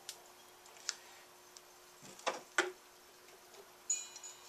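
A few light clicks and taps from hands handling tools and parts on a workbench, with a brief high squeak near the end, over a faint steady hum.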